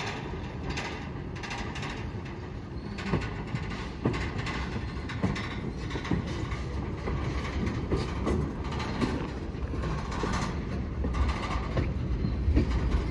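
Freight train rolling slowly during switching: a low rumble of wheels on rail with scattered clicks and knocks, growing a little louder toward the end.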